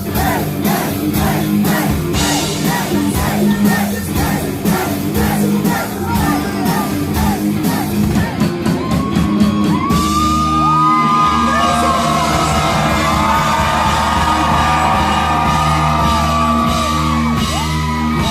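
Live rock band playing a hardcore-punk song with electric guitars, bass, drums and yelled vocals, heard in a large hall. Driving fast drumming gives way to a quick drum fill about halfway through, followed by sustained guitar chords with long bending melodic lines.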